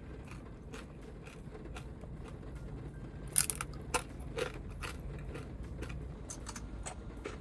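Raindrops tapping irregularly on the roof of a Toyota HiAce van, heard from inside the cabin over a low rumble. A brief crisp crackle comes about three and a half seconds in, with two smaller ones just after.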